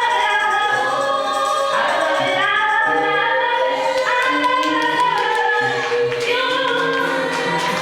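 A gospel choir singing in harmony, holding long notes with little or no accompaniment.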